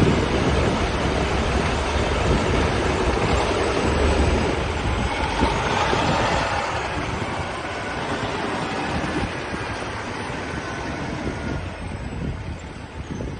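Steady vehicle rumble with a wind-like noise. It is heaviest in the low end at first and eases off over the last couple of seconds.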